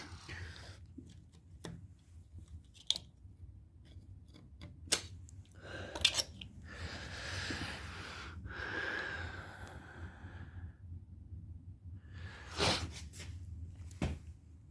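Scattered light clicks and knocks of handling, with a few seconds of hissing, rustling noise about halfway through.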